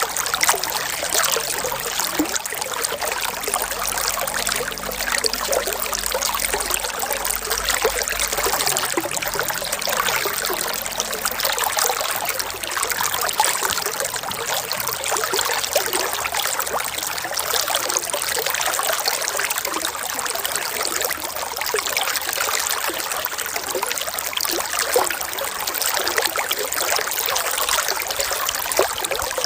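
Running water trickling and splashing steadily, a continuous wash of many small splashes with no change in strength.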